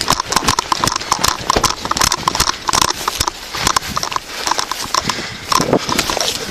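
Quick, irregular knocking and clatter, like hurried footsteps with gear and metal jingling, picked up close on a body-worn camera.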